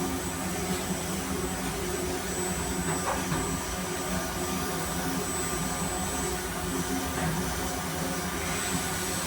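CNC machine running steadily: a continuous whirring noise with a thin, high, steady whine over it.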